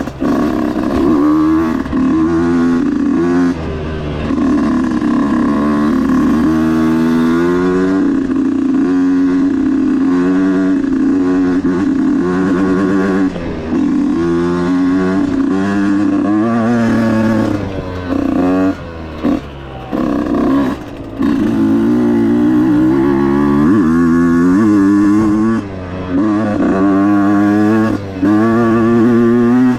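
Husqvarna dirt bike engine revving hard under load, its pitch climbing and falling again and again as the rider works the throttle and gears. There are a few short drops off the throttle: one a few seconds in, several about two-thirds through, and one near the end.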